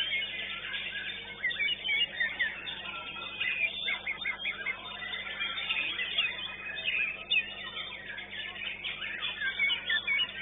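White-rumped shama singing a fast, varied song of quick chirps and whistled glides, with other birds chirping over it.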